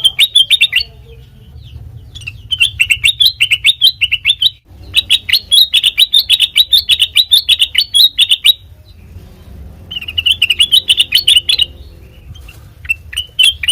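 Kutilang mas (a bulbul) singing in bouts of rapid, high chirped notes, with short pauses between bouts and a few single notes near the end.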